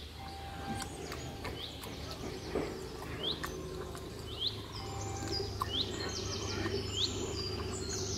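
Small birds chirping in the background: a dozen or so short, upward-hooked chirps repeated every half second or so, with a few higher notes and scattered faint clicks.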